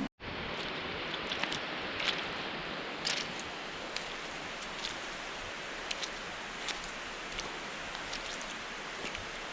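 Bare feet walking on a sandy, gravelly dirt trail: faint light steps about once a second over a steady hiss.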